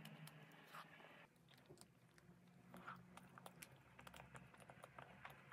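Faint, close-up chewing of a chocolate-coated Kinder bar with a soft milk filling: soft mouth sounds with many small clicks.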